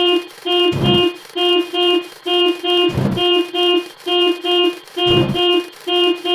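Car horn sound effect beeping in quick pairs, over and over without a break, with a deep thump about every two seconds.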